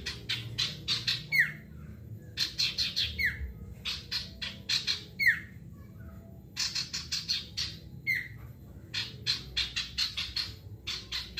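Male sirtu singing in bursts: five quick rattling runs of high notes, each ending in a downward-slurring whistle, about every two seconds, over a low steady hum.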